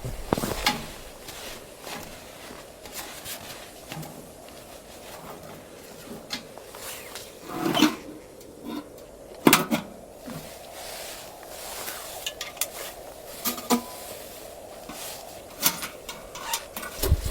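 Scattered knocks, clicks and rubbing of objects being handled, with the two loudest knocks about eight and nine and a half seconds in.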